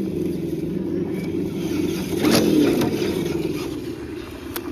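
Electric motor and gear drivetrain of an RC crawler truck whining steadily as it crawls, with a louder burst about two seconds in.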